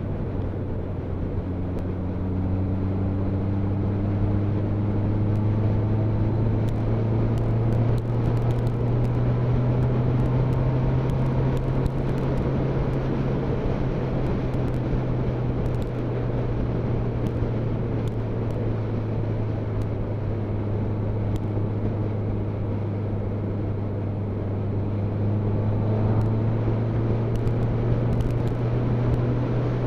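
Motorcycle engine running steadily at road speed, with its note rising slowly over the first several seconds, under a haze of wind and road noise.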